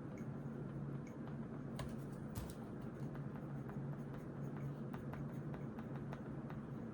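Pen writing on notebook paper: faint scratching strokes and small ticks, with a couple of sharper ticks about two seconds in, over a steady low hum.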